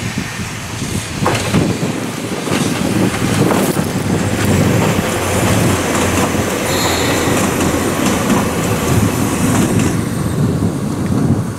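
Ohmi Railway electric train set 809F passing close by, its wheels clicking over the rail joints. The noise eases after about ten seconds as the train moves away.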